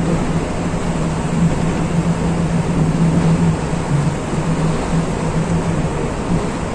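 Electric train running along the track, heard from inside the cab: a steady rumble and rush of wheels on rail with a low hum that drops out briefly a couple of times.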